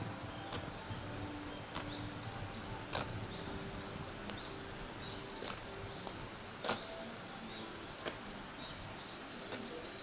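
Small birds chirping over and over in short high notes, with a few scattered sharp clicks, the loudest about two-thirds of the way through.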